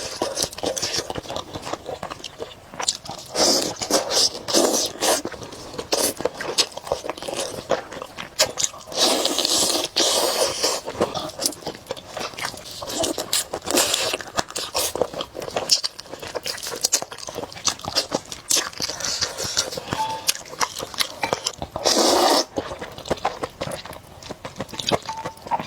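Close-miked eating: repeated crisp, crunchy bites and chewing of food, with many short sharp clicks.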